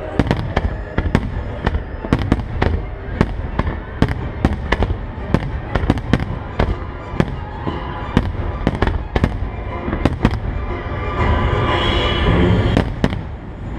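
Aerial fireworks shells bursting in quick succession, sharp bangs a few times a second over a steady low rumble. Near the end the bangs thin out and a steadier rushing, crackling sound takes over.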